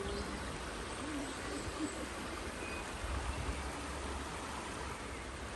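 Steady outdoor rushing noise, with uneven low wind rumble on the microphone and a few faint short pitched notes in the first couple of seconds.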